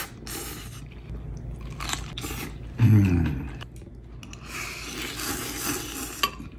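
Close-up chewing and biting of a leftover Philly cheesesteak sandwich, with a short low voiced hum about three seconds in.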